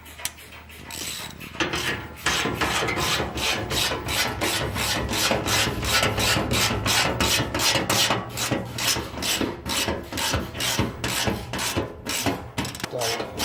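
Ratchet socket wrench being worked back and forth, tightening the engine skid-plate bolts. It gives a quick rasping click about three times a second, starting a second or two in.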